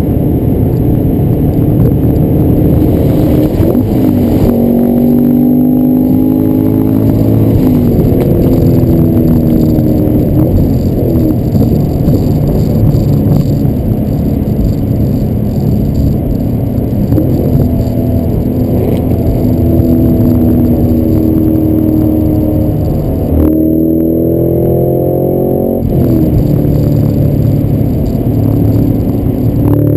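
Cadillac CT5-V Blackwing's supercharged 6.2-litre V8 pulling at freeway speed, heard from inside the cabin over steady road rumble. The engine note climbs under throttle and falls back several times, with the steepest climb about three-quarters of the way through, ending in a sharp drop in pitch.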